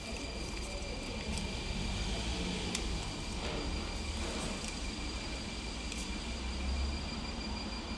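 Electric commuter train noise: a steady low rumble with a constant high thin whine and a few faint clicks, the rumble swelling briefly near the end.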